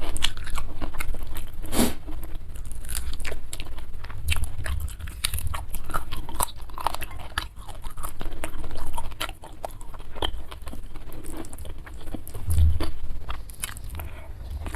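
A person chewing and biting food in a mukbang, with many irregular crisp crunches and clicks of the mouth and low thuds of chewing.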